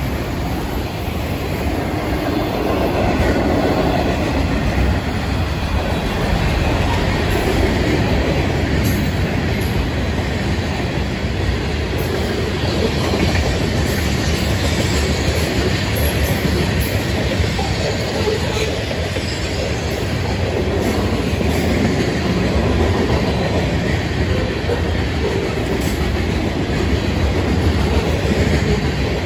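Freight train cars (autoracks, then tank cars) rolling steadily past at close range: a continuous rumble of steel wheels on rail with occasional clicks.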